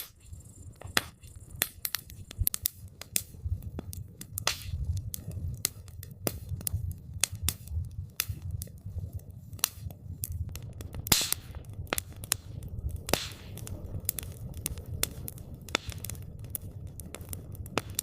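Wood campfire crackling, with irregular sharp pops and snaps over a steady low rumble; a few louder pops stand out.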